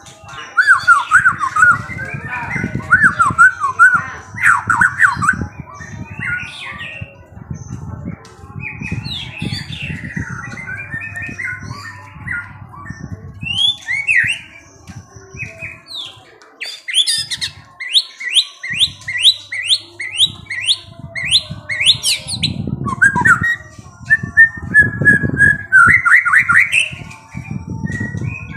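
Songbird chirping and twittering in a fast, varied song of whistled notes and short squawks, with a run of about ten quick rising notes in the middle. A low rumble sits underneath.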